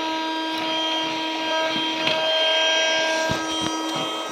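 Mini Henry desktop vacuum cleaner's small motor running steadily with a high whine, a few clicks and knocks about two seconds in and near the end.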